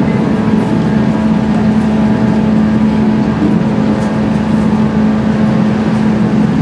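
185-series electric train running at a steady speed, heard from inside the car: a constant hum over a dense rumble of wheels on rail.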